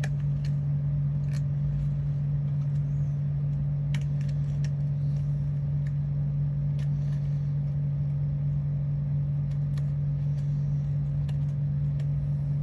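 A steady low hum runs throughout, with a few light clicks and taps from small pieces being handled.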